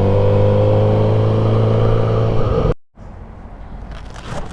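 Kawasaki motorcycle engine running under way, a steady note that rises slowly, then cut off abruptly about two and a half seconds in. After the cut there is only quieter background with a few light knocks.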